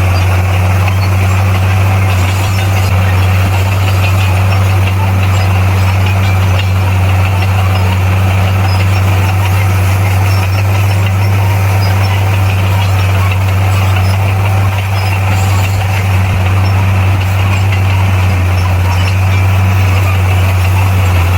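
Bulldozer's diesel engine running steadily at a constant pace, a heavy low hum with no revving or breaks.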